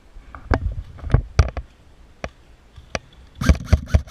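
Airsoft guns firing: sharp single shots at uneven intervals, then a quicker cluster of about five louder shots near the end.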